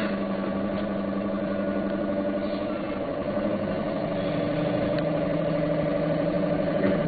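Meitetsu Panorama Car electric train running, heard on board: a steady rumble of wheels on the track with a low motor and gear hum, slowly growing a little louder.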